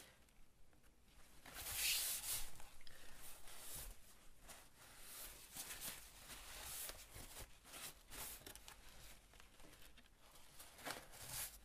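Paper rustling and rubbing as thin text paper coated in matte medium is folded around a page edge and smoothed down by hand, loudest about two seconds in.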